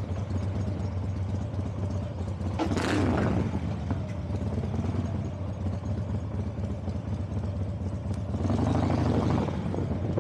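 Vehicle engine running steadily at a low idle, with two brief louder whooshes of noise, one about three seconds in and one near the end.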